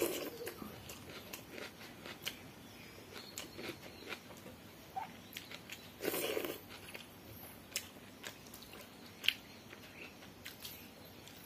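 A person chewing and eating a mouthful of food close to the microphone, with many small wet mouth clicks and one louder noisy burst about six seconds in.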